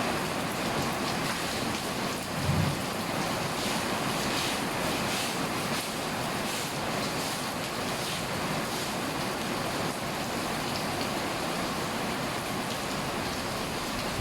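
Heavy rain falling steadily, a dense even hiss of downpour. A brief low thump sounds about two and a half seconds in.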